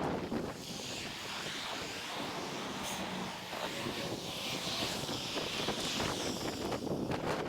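Wind rushing over the microphone of a camera on a moving bicycle. The low buffeting eases about half a second in, leaving a hiss that swells and fades.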